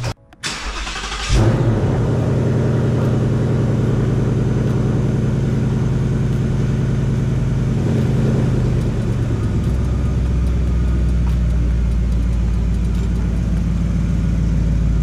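Ford Mustang GT's Coyote 5.0 V8 running at low speed while the car creeps forward. It comes in sharply about a second and a half in, then runs steadily, with a deeper tone joining about ten seconds in.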